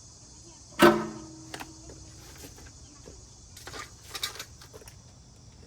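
Metal grill parts knocking together as they are handled: one loud clank about a second in that rings on briefly, then a few lighter clicks and a short clatter of knocks near the end.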